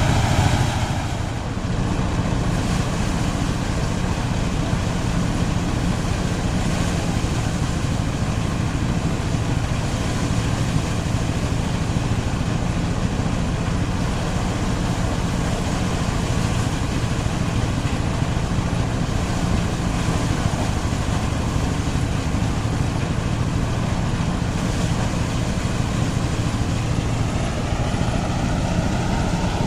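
Engine-driven rice threshing machine running steadily under load, its engine and threshing drum making a continuous loud hum with a fast even pulse.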